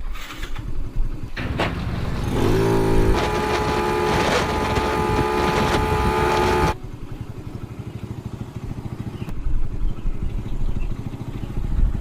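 Motorcycle engine running after its rebuild. It revs up with a rising pitch about two and a half seconds in and holds steady, then cuts off abruptly near seven seconds. A steady, pulsing idle follows.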